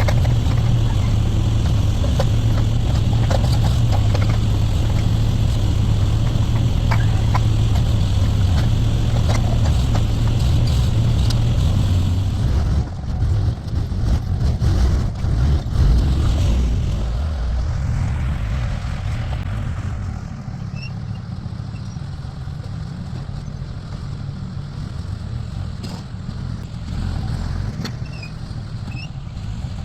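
Backhoe engine running under work, loud and steady with scattered knocks and clatter, then uneven as the load changes, and settling to a quieter steady run for the last ten seconds or so.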